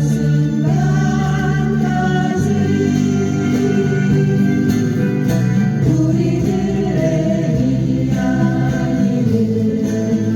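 Acoustic guitars strumming chords while several voices sing a song together.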